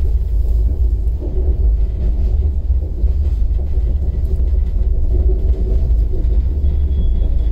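Steady low rumble of a passenger train running, heard from inside a Rajdhani Express air-conditioned coach.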